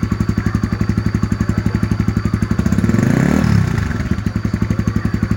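Honda CB150R's single-cylinder engine idling through a Tirev aftermarket exhaust with an even pulsing beat. It is blipped once about three seconds in: the revs rise quickly and fall back to idle.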